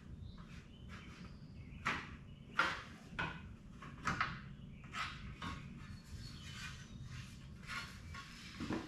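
Irregular clicks, knocks and light rattles from a door valance panel and its bolts and nuts being handled and test-fitted. The loudest knock comes about two and a half seconds in.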